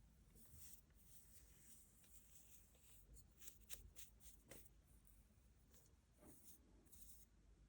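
Faint, short scratching strokes of a tool working the surface of a bas-relief painting, coming in bunches over a low room hum.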